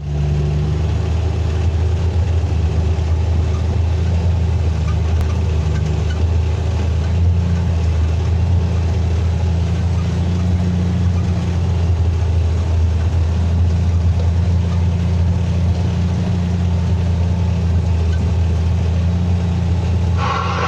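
Mack coal truck's diesel engine running steadily: a loud, deep, even drone with no revving. About 20 seconds in, the sound changes abruptly as higher-pitched tones join it.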